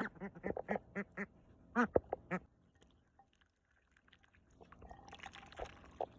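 A bird giving a fast series of short, nasal calls, about five a second, with two louder calls about two seconds in. After a quiet spell, a faint hiss with small clicks near the end.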